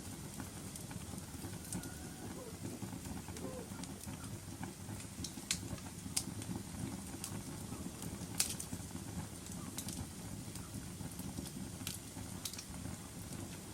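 Fireplace fire crackling: a low steady rumble of flames with scattered sharp pops, the loudest about eight seconds in.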